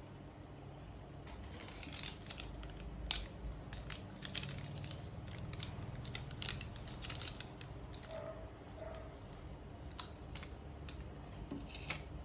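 Small clicks, scrapes and crinkling of hands and repair tools working on a smartphone's parts during a battery replacement, in irregular bursts over a low steady hum.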